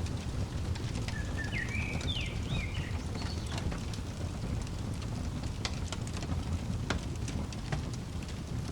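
Fireplace crackling, with scattered sharp pops over a steady low rumble. A bird sings a short phrase of chirps about a second in.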